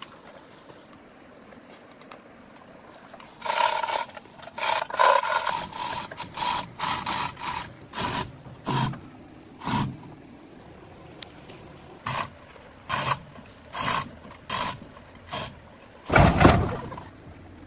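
A hand tool scraping or rasping in repeated short strokes, roughly one every two-thirds of a second, the early strokes with a thin squealing ring. A single louder, heavier knock near the end.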